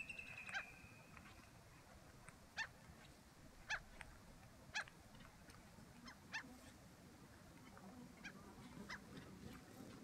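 Faint calls of wetland birds: a thin high whistle near the start, then short, sharp calls repeated several times, about a second apart at first.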